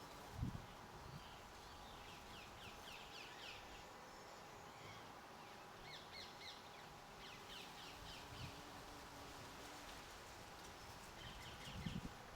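Garden birds calling faintly in three short bursts of quick high chirps, with a soft low thud about half a second in and another near the end.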